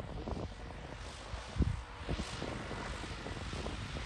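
A tractor engine running steadily, with irregular low thumps over the drone.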